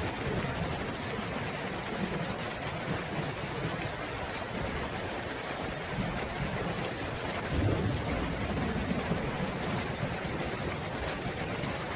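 Steady rain falling, with low rumbling swells of distant thunder, the strongest about two thirds of the way through.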